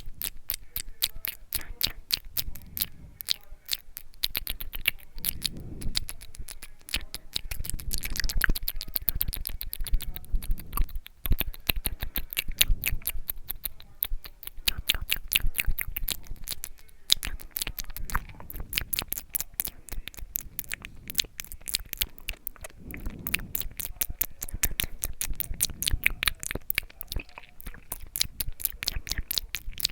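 Close-miked ASMR mouth sounds: a dense, unbroken run of small wet clicks and smacks, many a second, with softer low swells every few seconds.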